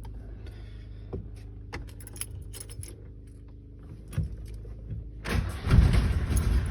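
Electric fuel pump humming steadily with a few light clicks, then about five seconds in the 1961 DKW 750 Junior's three-cylinder two-stroke engine is cranked and catches at once on a cold start without choke, running loud and rough.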